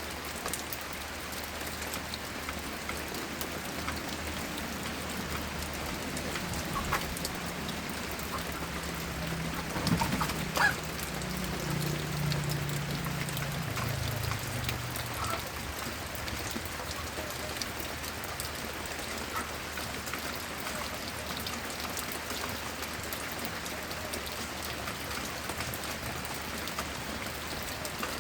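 Steady rain falling and pattering on surfaces. About ten seconds in there are two sharp knocks, and a low hum swells and fades over several seconds, sinking slightly in pitch.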